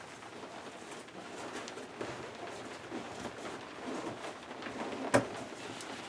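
Hands working on a car seat being taken apart: scattered light rustling and small clicks, with one sharp click about five seconds in.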